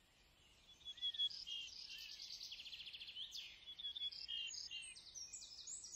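Several birds chirping and trilling, faint and overlapping, with many short rising and falling notes.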